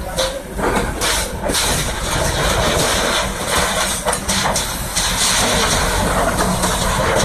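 Kobelco SK200 excavator's diesel engine running steadily, a heavy low engine note under broad mechanical noise.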